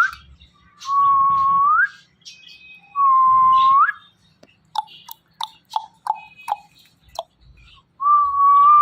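Indian ringneck parrot whistling: three long level whistles of about a second each, each ending in a quick upward flick. Between the second and third comes a run of short chirps and clicks.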